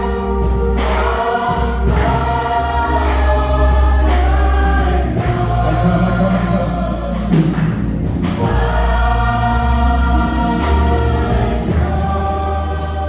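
Gospel choir singing a slow hymn in long, held notes over a steady low instrumental accompaniment.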